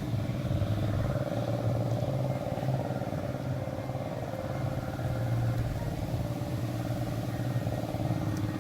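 An engine running steadily, a low even drone that holds throughout.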